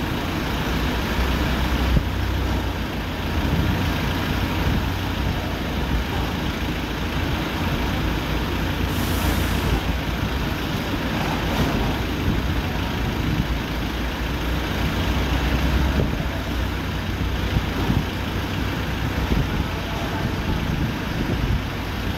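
Tractor engine running hard and steadily, with a rough, heavy low rumble; a brief hiss sounds about nine seconds in.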